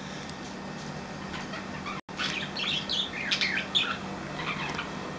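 Budgerigars chattering in a cage, a quick run of short chirps and squawks. The sound drops out briefly about two seconds in, and the chatter is busiest after that.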